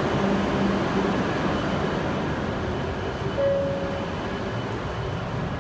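Steady hum and noise of a stationary W7 series Shinkansen train at a station platform, easing slightly in level, with one short beep about three and a half seconds in.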